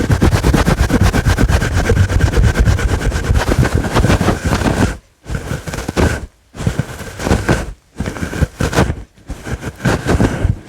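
Fingers scratching hard and fast on a fluffy furry microphone cover, held close to the mic: a loud, dense rustling scratch. About five seconds in it breaks into four shorter bursts with brief pauses between them.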